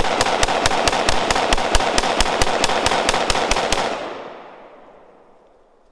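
AR-15 rifle fired in rapid, evenly spaced succession, about five shots a second. The shooting stops about four seconds in and the echo dies away over the next two seconds.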